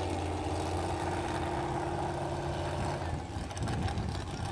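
An engine idling steadily at the drag strip, fading out about three seconds in.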